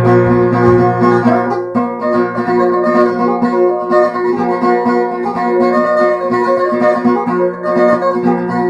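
Solo guitar playing an instrumental passage between sung verses, picked notes running on steadily with no voice.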